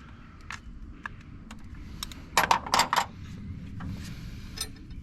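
Small metal parts and tools clinking: a few light clicks, then a quick run of four or five sharp clinks about halfway through.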